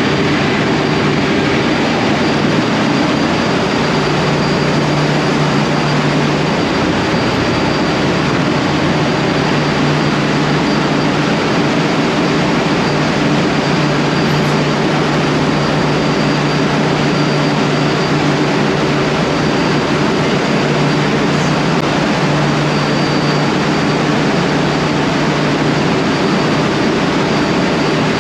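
Ship's engine-room machinery noise: a loud, steady drone with a low hum that drops out briefly twice.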